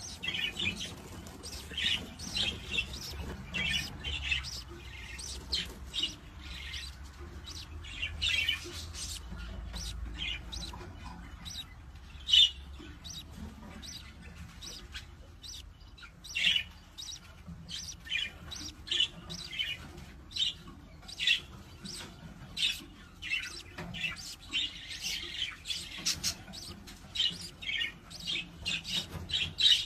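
Budgerigars chirping and squawking in many short, sharp calls one after another, with one sharp loud click about twelve seconds in.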